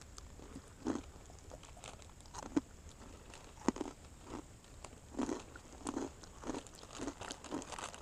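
A person chewing crunchy snacks: a string of short, irregular crunches that settles into a steady chewing rhythm of about two a second in the second half.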